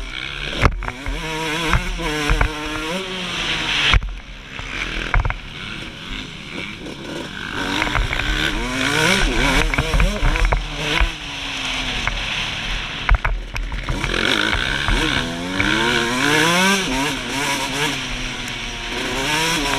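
Suzuki RM125 125cc two-stroke single-cylinder motocross engine revving up and falling back again and again as the bike accelerates and shifts around the track, with a few sharp knocks along the way.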